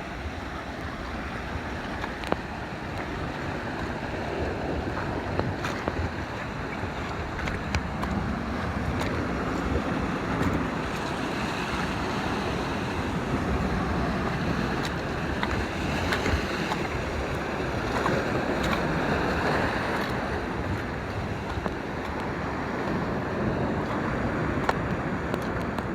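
Sea surf washing against shoreline rocks, a steady rushing wash, with wind on the microphone.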